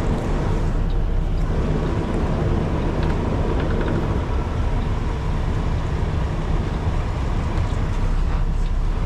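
Kenworth T680 semi truck's diesel engine running steadily at low speed while the rig is being maneuvered into the dock.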